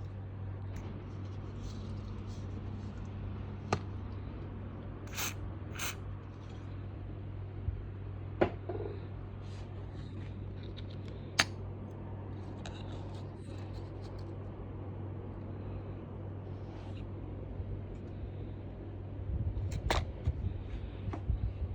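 Sharp clicks and light scraping from small tools and parts being handled on a laptop during a battery replacement, over a steady low hum; a cluster of handling noise near the end.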